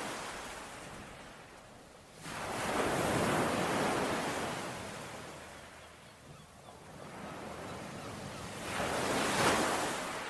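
Ocean waves washing onto a shore: a surge of surf rises about two seconds in and slowly ebbs, and a second surge builds near the end.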